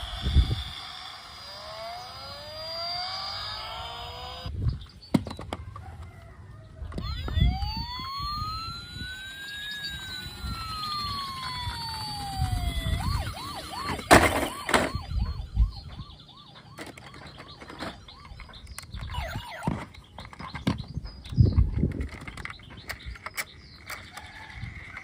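Toy emergency vehicles' electronic sirens, their tones sliding up and down, with one long rising-then-falling wail in the middle and a fast warble after it. Thumps and clicks are scattered throughout.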